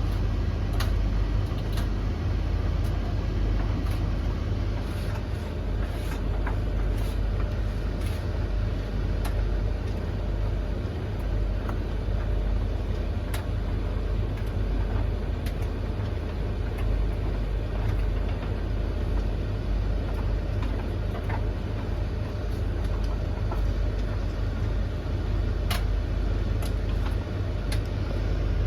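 Three domestic tumble dryers running together mid-cycle: a steady low hum and whirr of motors and turning drums, with scattered sharp clicks now and then.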